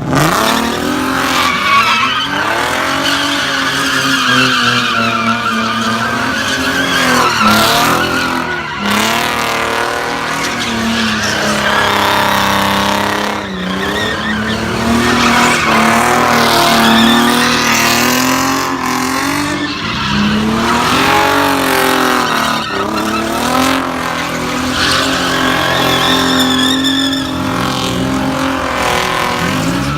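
A car's engine held at high revs with its tyres squealing, as in a burnout or donuts. The revs dip and climb again several times over about half a minute.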